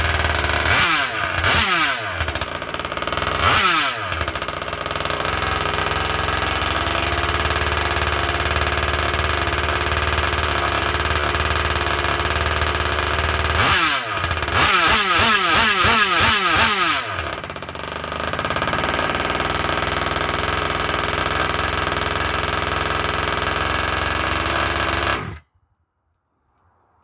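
RC Max small two-stroke petrol engine of a Baja 5B RC car idling, blipped on the throttle a couple of times, then revved up and down rapidly for about three seconds near the middle before settling back to idle. The sound cuts off suddenly near the end.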